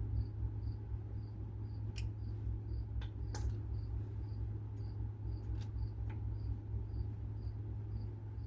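A few sharp metallic clicks and clinks of hand work on the truck's underside during starter removal, over a steady low hum and a faint high tick repeating about every half second.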